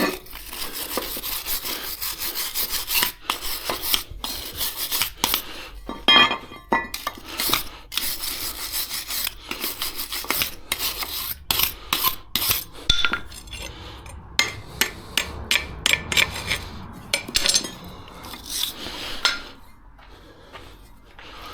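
Hand tool scraping and rubbing in quick, irregular strokes, with a brief metallic ring about six seconds in; the sound dies away near the end.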